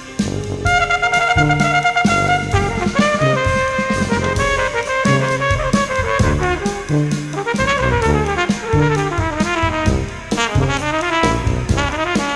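Jazz brass ensemble playing: trumpets carry held notes and then moving melody lines over a short, repeated tuba bass line, with baritone saxophone, keyboards and a drum kit keeping time.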